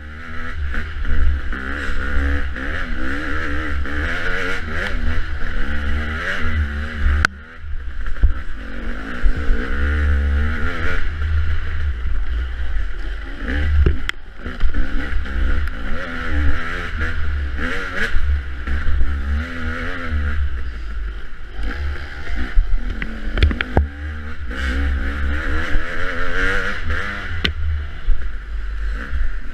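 Off-road dirt bike engine being ridden hard, its revs rising and falling again and again, over a heavy low rumble. A few sharp knocks cut through, about four in all.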